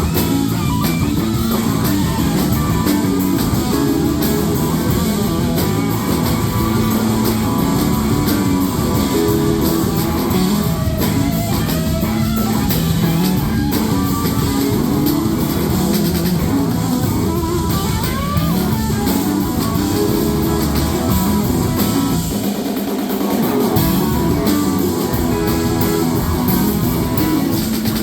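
Live rock band playing an instrumental passage with no vocals, guitar to the fore over bass and drums. The bass and drums drop away briefly about three quarters of the way through.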